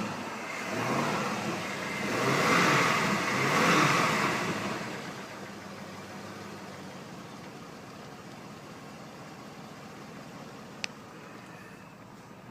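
2004 Buick Rainier's 5.3-litre LS V8 revved twice, the second rev longer and higher, then falling back to a steady idle. A single sharp click late on.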